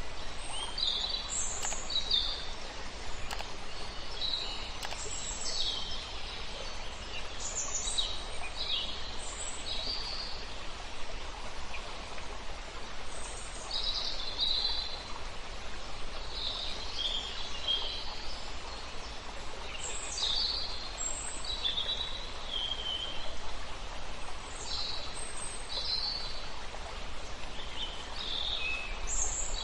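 Several songbirds singing short, high chirps and trills one after another over the steady rush of a river.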